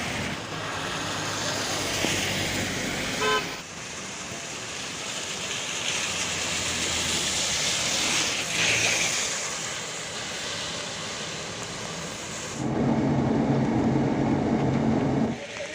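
Road traffic on a rain-soaked street: a steady hiss of rain and wet tyres. There is a short horn toot about three seconds in and a long, loud, low horn blast near the end lasting nearly three seconds.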